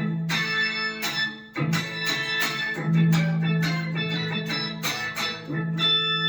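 Electric guitar played through a Boss SY-200 guitar synthesizer pedal on its "Sine Lead" preset: a run of picked lead notes that come out as synth tones, with one low note held for a couple of seconds in the middle.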